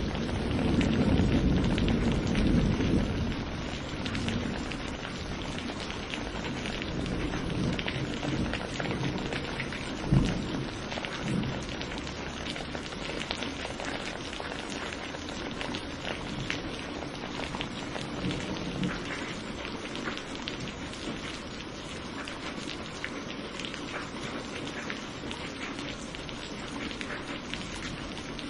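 Steady thunderstorm rain pattering on a surface, with a low rumble of thunder in the first few seconds that fades away. A single short, sharp thud comes about ten seconds in.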